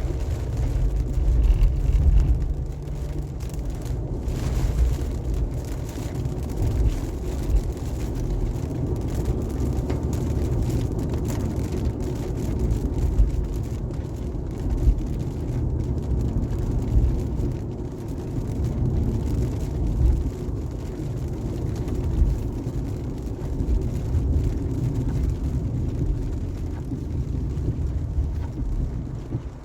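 Car driving at highway speed in the rain: a steady low rumble of road, tyre and engine noise that swells slightly now and then.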